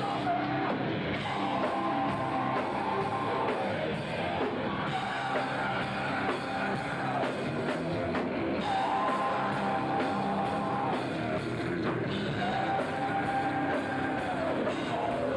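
Hard rock band playing: drum kit, distorted electric guitars and singing, with a long held note about every three to four seconds.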